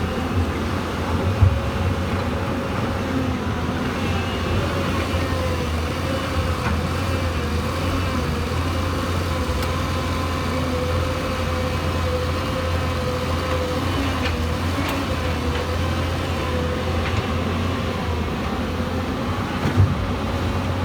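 Hyundai R220-9SH Robex excavator's diesel engine running steadily under work, with a faint wavering whine above the low engine hum. Two sharp knocks stand out, one about a second and a half in and one near the end.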